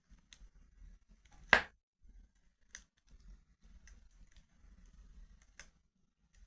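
Wood fire in a fireplace crackling quietly with scattered small ticks, and one sharp loud pop about a second and a half in.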